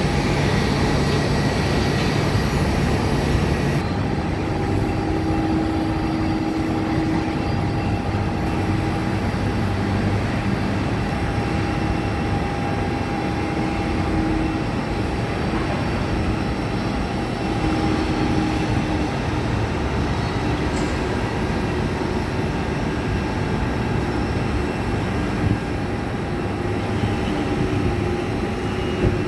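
Jet aircraft engines, a steady loud rumble with faint whining tones on top; the high hiss drops about four seconds in.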